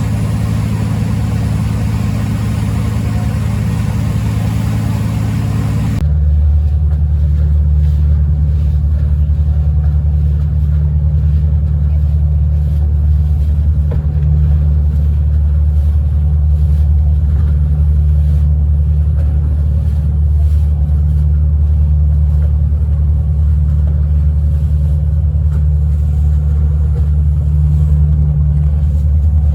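Tour boat's engine droning steadily. About six seconds in the sound changes abruptly to a deeper, muffled hum with little treble.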